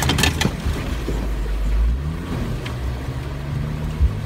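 Jeep Wrangler Rubicon's engine running as it drives a muddy trail, its pitch rising briefly about two seconds in, with a few sharp knocks near the start.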